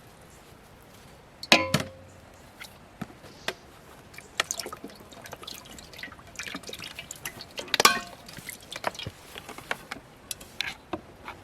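Irregular clinks and knocks of kitchenware with dripping and pouring liquid. Two sharper strikes, one about one and a half seconds in and one near eight seconds, each ring briefly.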